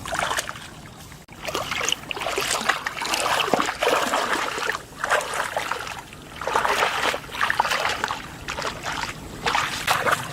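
Shallow floodwater in a rice field splashing and sloshing in irregular bursts, with a quieter spell about a second in.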